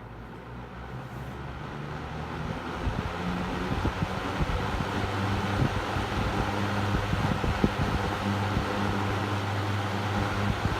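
Superlectric Model 1490 14-inch box fan on high speed, spinning up and then running steadily: a rush of moving air over a low motor hum. The freshly oiled motor shaft runs freely, without the rattle or squeal it had when dry. Air from the fan buffets the microphone with irregular low thumps.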